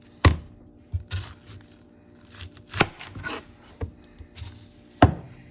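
Kitchen knife cutting an onion, the blade knocking sharply against the cutting board several times at uneven intervals.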